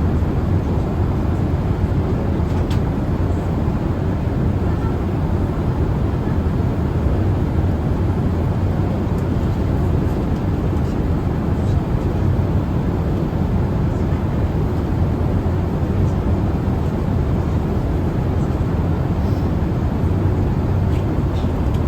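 Steady, low cabin drone of a Boeing 787-8 Dreamliner in cruise: airflow and engine noise heard from inside the passenger cabin, even and unchanging.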